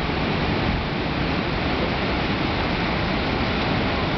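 Water gushing from Chungju Dam's gates during a release: a steady, even rush of noise.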